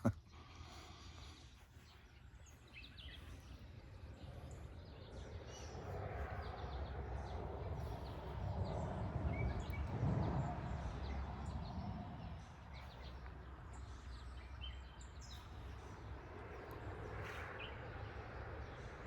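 Outdoor background noise with scattered bird chirps. A broad rumbling noise swells up and fades away in the middle.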